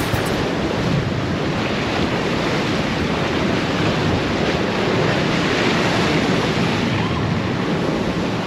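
Steady rushing of wind and sea waves, with wind buffeting the microphone.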